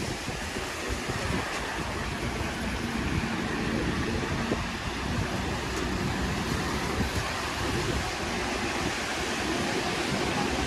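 Steady hiss of rain and wet-street noise, with the faint sound of passing traffic.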